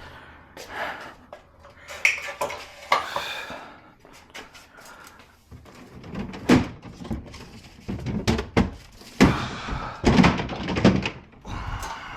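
Irregular thunks, knocks and clatter of parts and a cardboard box being handled, busiest in the second half.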